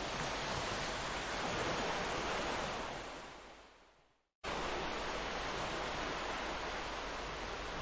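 Ocean surf washing on a beach as a steady rush. About three seconds in it fades away to a moment of silence, then cuts back in abruptly at full level.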